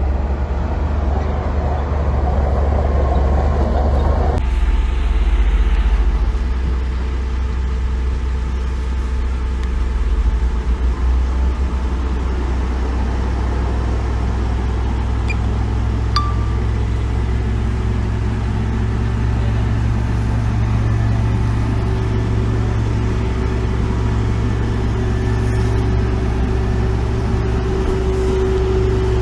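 Heavy diesel earthmoving machinery running steadily, a low engine drone that changes abruptly about four seconds in and settles into a steadier hum partway through.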